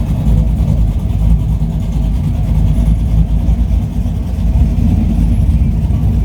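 Vehicle engine running steadily, a deep low rumble.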